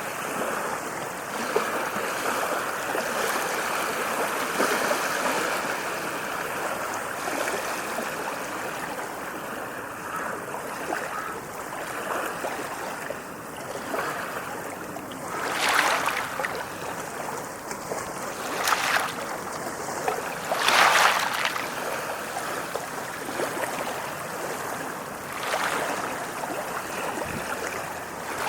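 Ocean waves washing ashore: a steady rush of surf, with four louder waves breaking in the second half.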